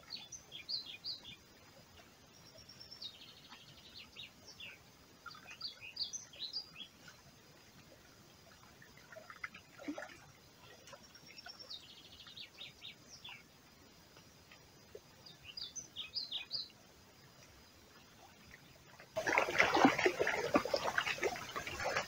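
A songbird sings short, high phrases again and again, with gaps of a few seconds between them. About three seconds before the end, a much louder stretch of rustling and clattering noise cuts in.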